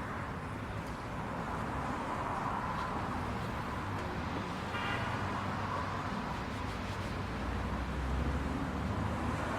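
Steady vehicle noise, a low rumble with a hiss over it, and a brief high-pitched toot about five seconds in.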